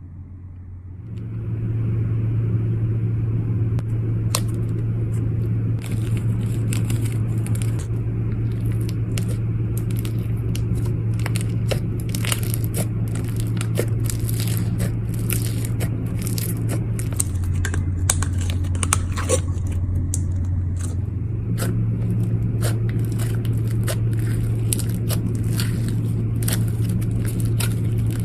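Slime being squeezed and worked by hand, giving many small irregular crackling pops and clicks over a steady low hum. The hum drops lower for a few seconds past the middle, then returns.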